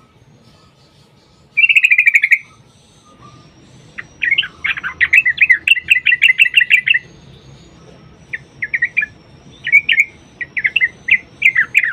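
Yellow-vented bulbul (trucukan) singing loud, bubbly chattering phrases: a short fast trill, then a long rapid run of notes, then a string of shorter warbled note groups.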